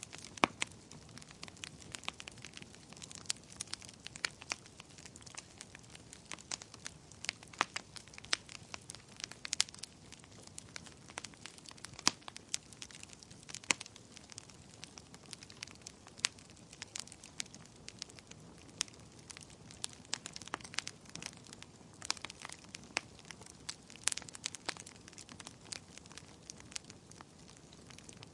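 Wood fire crackling: frequent irregular sharp pops and snaps over a soft steady hiss of burning.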